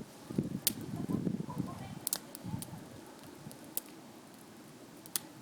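Wood campfire crackling, with a handful of sharp, isolated pops scattered through. A low rough noise sounds in the first couple of seconds, then dies away.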